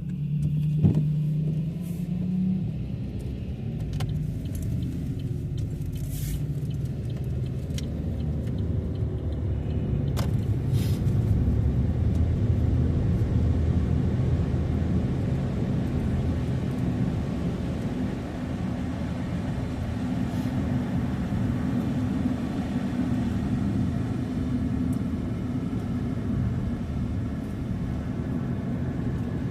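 Car running on the road, a steady low engine and road rumble heard from inside, starting suddenly, with a few scattered clicks in the first ten seconds or so.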